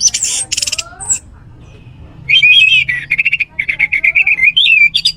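Orange-headed thrush (anis merah) singing. A harsh, buzzy burst of notes comes in the first second, then after a short pause a long run of rapid trills and chattering phrases.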